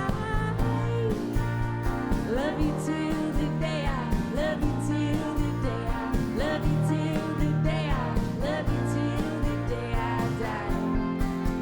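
Live band playing a country-rock song: guitars over bass and a steady drum beat, with a lead line that bends up and down in pitch every couple of seconds.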